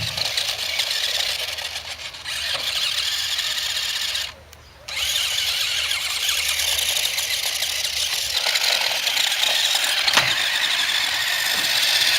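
Small electric motor of a remote-control toy motorcycle giving a high-pitched whine. It cuts out for about half a second around four seconds in, then runs on.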